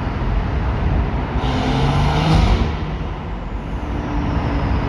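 Stage 2 BMW M140i's turbocharged B58 straight-six with a Quicksilver exhaust under hard acceleration, its pitch rising. The pitch and level drop at a gear change about three seconds in, then climb again.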